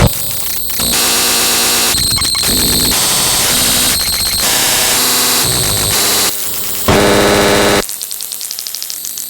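Loud electronic static and harsh buzzing noise, switching abruptly from one grating texture to another every second or so. Near the end it drops to a quieter, rapid pulsing.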